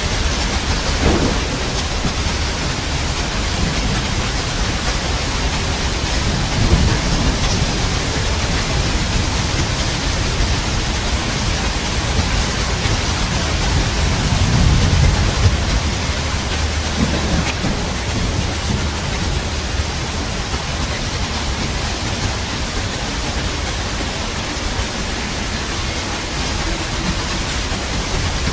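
Steady heavy rain hissing, with low rolls of thunder a few times, the loudest and longest about halfway through.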